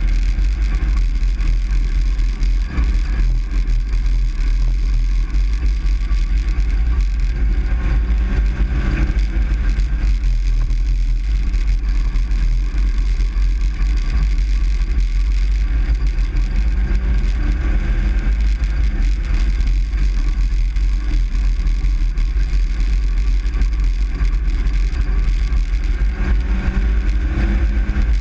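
Truck running, heard from inside the cab: a steady, heavy low rumble with faint engine tones over it.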